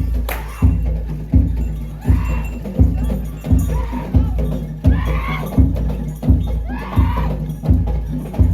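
Bantengan percussion music: a heavy bass drum struck steadily about every 0.7 seconds, with lighter percussion over it. Twice, about halfway through and again near the end, a higher wavering note sounds over the beat.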